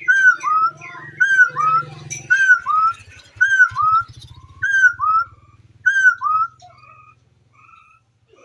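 A bird calling: loud whistled two-note calls, a falling note followed by a rising one, repeated about once a second, growing fainter and sparser near the end.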